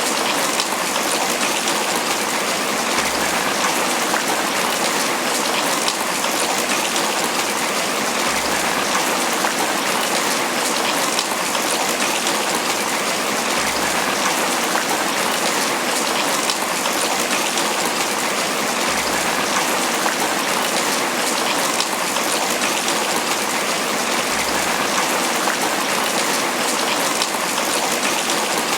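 Tropical rain falling steadily on banana leaves: an even, unbroken patter of many drops.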